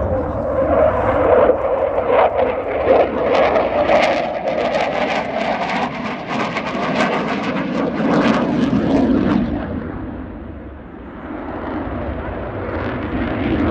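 Dassault Rafale C fighter jet flying a display pass, a loud, crackling jet noise that fades away after about ten seconds, then builds again as it comes back near the end.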